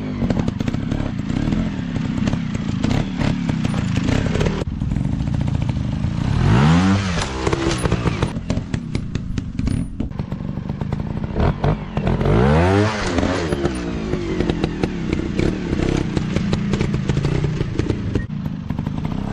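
Dirt bike engines revving up and dropping back three times, about six seconds apart, with many clattering knocks throughout.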